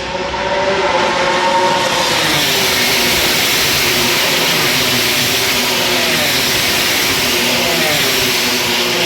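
MotoGP race motorcycles racing at full throttle: a loud, steady engine noise with several engine notes at once. Near the end some notes slide down in pitch as bikes go past.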